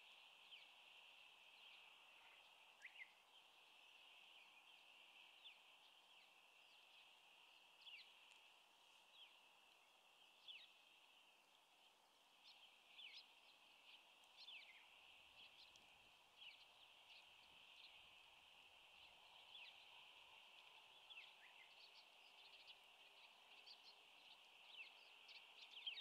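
Faint outdoor ambience: many short, high chirps of small birds, each sliding downward, scattered over a steady high hiss.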